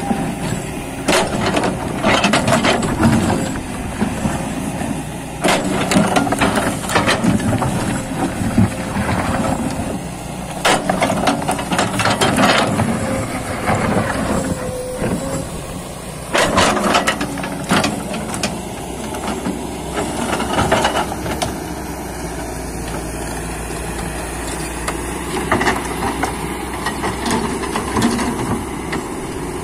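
Excavator's diesel engine running with hydraulics at work, with repeated clanks, knocks and scraping from the bucket and tracks against earth and rock. The knocks fall off about two thirds of the way in, leaving a steadier engine sound.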